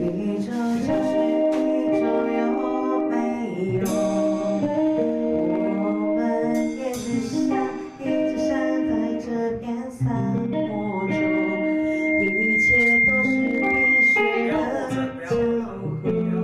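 Rock band rehearsal music: guitar and other instruments with a singing voice, changing chords every second or so. A thin high tone is held for a few seconds in the second half.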